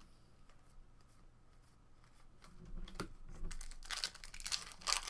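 A single click about three seconds in, then a trading-card pack's foil wrapper being torn open and crinkled.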